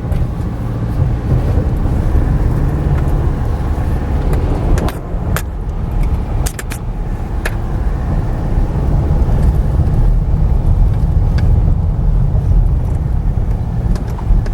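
A vehicle driving, a steady low rumble with occasional knocks and rattles.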